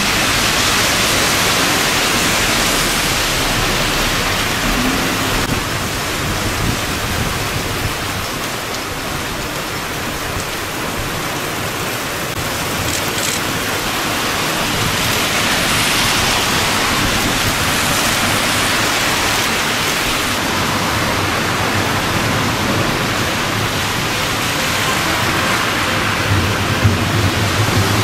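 Heavy rain falling in a sudden downpour: a steady, even hiss of rain.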